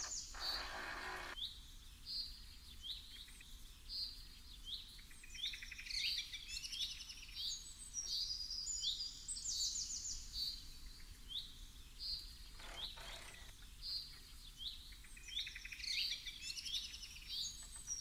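Birds singing outdoors: many short, repeated chirps and quick trills, going on throughout. Two brief bursts of noise, one just after the start and one about thirteen seconds in.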